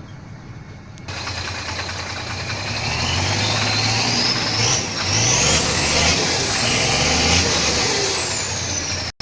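Dump truck's diesel engine pulling hard and accelerating, with a high whine rising in pitch over several seconds and then easing down. It starts abruptly about a second in.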